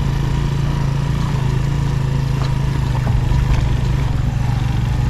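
Suzuki GS 150 motorcycle's single-cylinder four-stroke engine running at a steady pitch under way, with a few sharp clicks over it.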